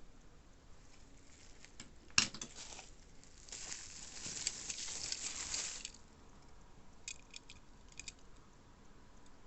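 Packaging being handled: a sharp knock about two seconds in, then a stretch of rustling and crinkling, and a few light clicks near the end.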